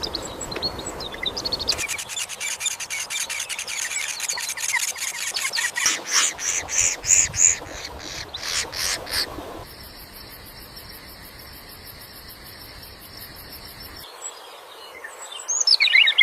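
Newly hatched shrike nestlings chirping in a rapid, dense run of high peeps for several seconds. A steady high insect buzz follows, then a short loud burst of bird calls near the end.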